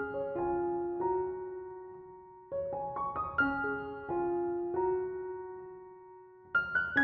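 Soft background piano music: short phrases of struck notes that ring and die away, a new phrase starting about every three and a half seconds.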